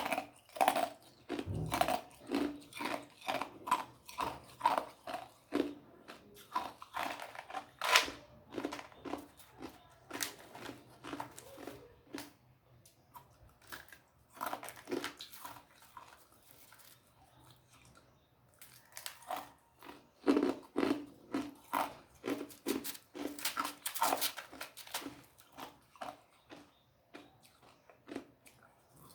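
Ice being crunched and chewed between teeth: a rapid, irregular run of sharp crunches, with a few short pauses between mouthfuls.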